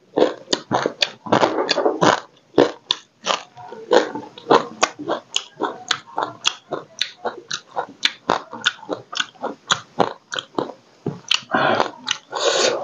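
Close-up chewing and crunching of small crabs, a quick, irregular run of crackles and clicks, with a longer, denser stretch of noise a little before the end.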